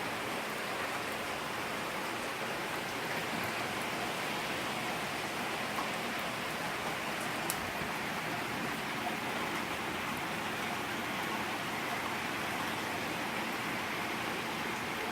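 Steady rain falling and pattering on surfaces, with an occasional single drop or tick standing out.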